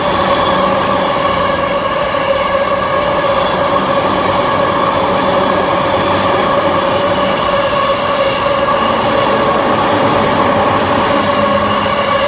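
Electric train running through a station platform without stopping, a steady high-pitched whine sounding over the rumble of the wheels.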